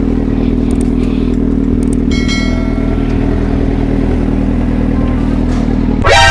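Suzuki GSR 750's inline-four engine idling steadily, then revved sharply near the end, its pitch climbing fast.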